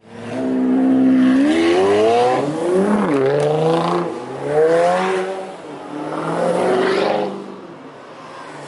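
High-performance car engine revving hard, its pitch climbing and dropping back about four times.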